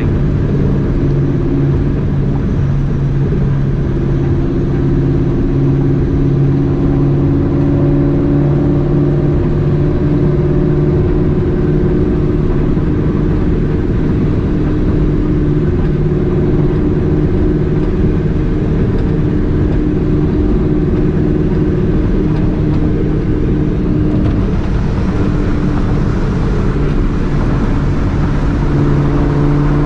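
Supercharged 2004 Ford Mustang GT's 4.6-litre two-valve V8 with Borla ATAK exhaust, cruising at a fairly steady engine speed with a constant exhaust drone and road noise.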